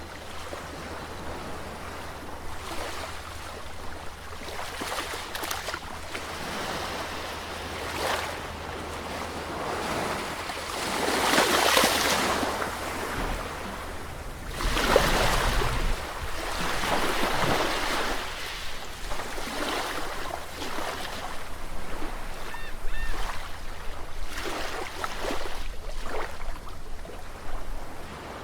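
Sea waves breaking and washing on a shore, the surf swelling and falling back in slow surges. The biggest breakers come about twelve and fifteen seconds in.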